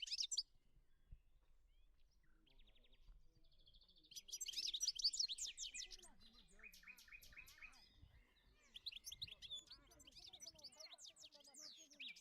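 Small songbirds chirping and twittering in bursts: a short fast trill about two seconds in, a dense burst of chirps a little after four seconds, then a run of repeated notes and more chirping toward the end.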